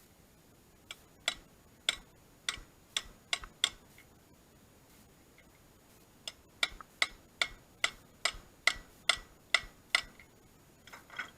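Sharp taps struck in two runs, seven taps at about two a second, a short pause, then about ten faster taps, with a few softer knocks near the end. The taps are typical of a hammer striking a metal part.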